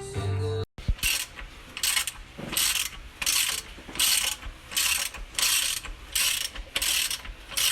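A hand tool working on the engine in about ten rhythmic back-and-forth strokes, roughly one and a half a second. It starts about a second in, after a short carry-over of the previous sound that cuts off abruptly.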